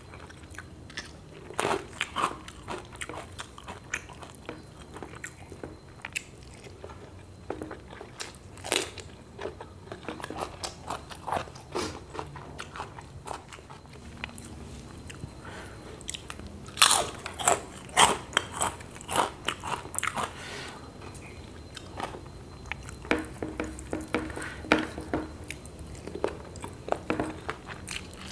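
Close-up eating sounds: chewing with sharp, crisp crunches of bites into raw cucumber and other food. The crunches are loudest in a quick cluster about seventeen to twenty seconds in.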